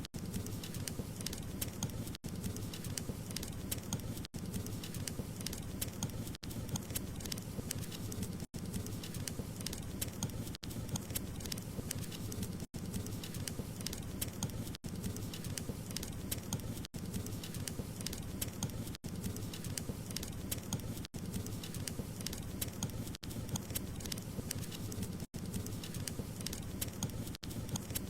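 Wood fire crackling: a steady low rumble with dense small pops and snaps, broken by very brief gaps in the sound about every two seconds.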